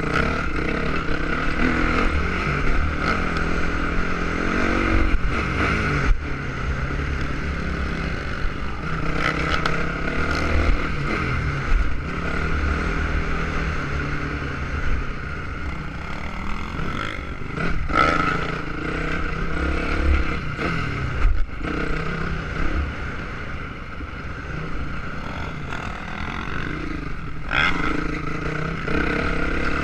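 Motocross dirt-bike engines running and revving up and down, rising and falling in pitch throughout.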